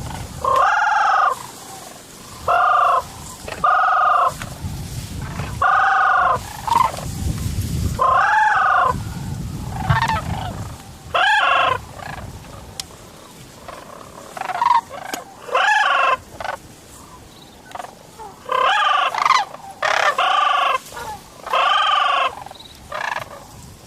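Hand-blown waterfowl call: a series of loud, single drawn-out calling notes, about a dozen at irregular intervals, each lasting around half a second to a second.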